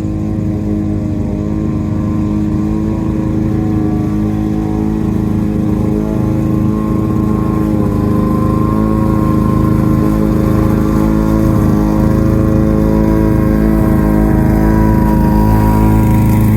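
Lawn-Boy two-stroke push mower engine running steadily under mowing load, its pitch wavering a little as the load changes.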